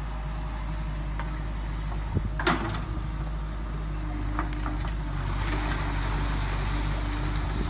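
JCB 3DX backhoe loader's diesel engine running steadily, with a sharp clank about two and a half seconds in. From about five seconds in, a broad hiss rises over the engine.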